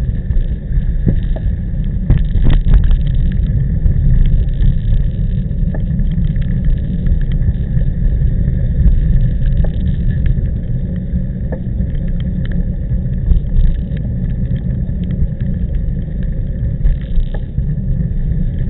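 Wind rumbling heavily on the microphone of a camera on a moving road bike, with scattered short clicks and rattles.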